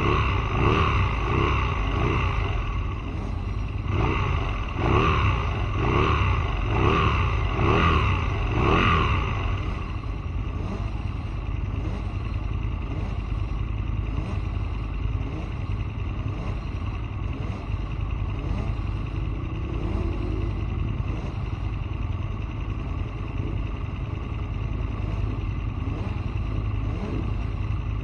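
Aprilia Tuono motorcycle engine accelerating hard through the gears, its pitch climbing and dropping at each shift about once a second. After about nine seconds it settles into a steadier, quieter run under a heavy low wind rumble.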